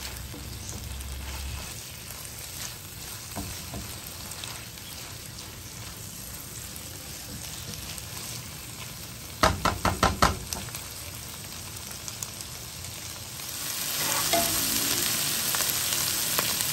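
Diced tomatoes and onions sizzling in oil in a non-stick frying pan while a silicone spatula stirs them. A quick run of about six knocks comes about halfway through, and the sizzle grows louder near the end.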